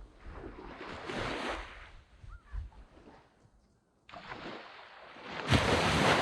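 Sea waves breaking and washing up a sandy beach. One wave surges about a second in and fades away, then a louder wave builds and breaks near the end.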